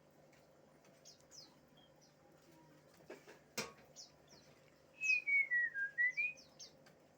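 Cingcoang (shortwing) singing: scattered short, high chirps, then about five seconds in a quick run of clear whistled notes that steps down in pitch and back up, the loudest part. A single sharp knock comes about halfway through.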